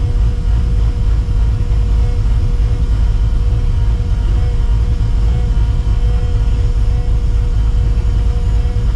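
Cammed, Procharger-supercharged 5.4-litre V8 of a 1999 Mustang GT cruising at a steady pace, a deep steady rumble heard from inside the car, with a faint steady whine above it.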